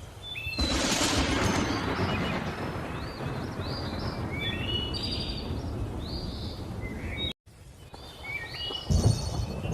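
Thunderstorm with birds chirping and whistling throughout: a broad thunder rumble swells up about half a second in and slowly fades, the sound drops out for an instant about two-thirds of the way through, and a sharper thunderclap hits near the end.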